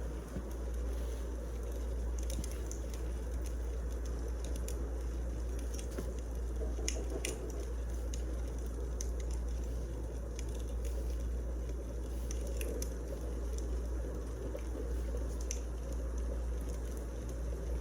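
Firewood burning: scattered sharp crackles and pops over a steady low rush.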